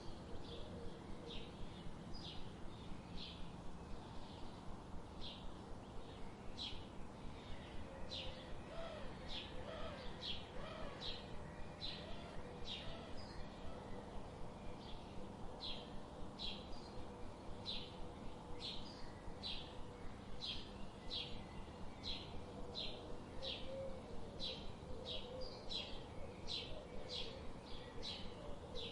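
A bird chirping over and over, short high chirps at an even pace of roughly three every two seconds, over a soft outdoor background hiss.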